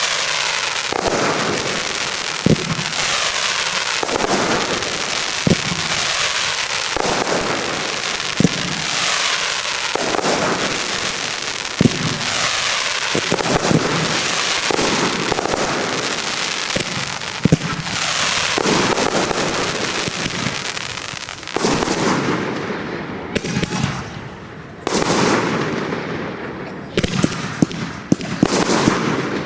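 Professional fireworks display: shells bursting in a continuous dense crackle and fizz, with sharp bangs every second or two. Near the end comes a rapid string of crackling pops.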